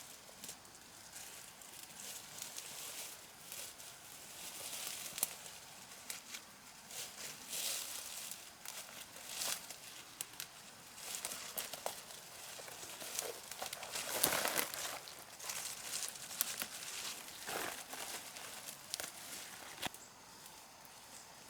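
Irregular rustling and crackling of dry material, with scattered light clicks and scrapes and a louder burst of rustling about two-thirds of the way through.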